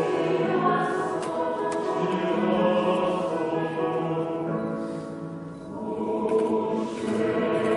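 A choir singing together in harmony, with long held chords; the singing eases off about five seconds in and swells back in soon after.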